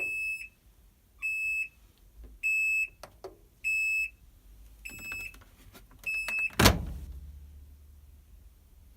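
RCA portable washing machine's control panel beeping six times, evenly about a second apart, as the wash cycle starts. Then comes a loud clunk and a low steady hum.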